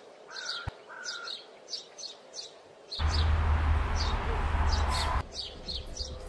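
Songbirds chirping in woodland: many short, high chirps repeating, with two short level whistled notes near the start. About halfway in, a loud rushing noise with a deep rumble covers them for about two seconds and then cuts off.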